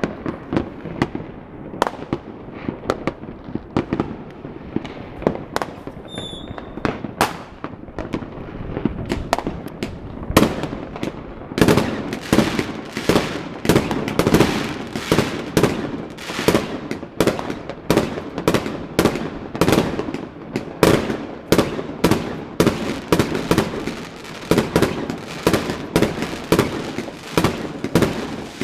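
New Year's fireworks going off: an irregular string of sharp bangs and crackles that becomes much denser and louder about eleven seconds in. A short high whistle sounds about six seconds in.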